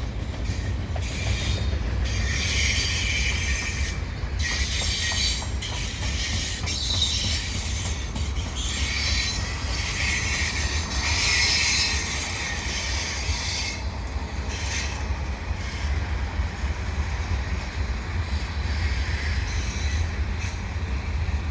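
Freight cars of a slow, heavy mixed freight train rolling past, with a steady low rumble and clicking wheels. A high screech from the wheels comes and goes, strongest in two long spells near the start and the middle.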